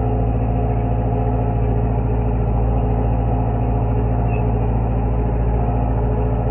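Tractor engine running at a steady speed, a constant low drone with no change in revs.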